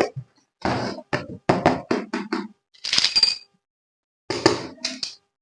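A run of short knocks and taps from objects being handled, with a brief rustle about three seconds in and two more clusters of knocks near the end.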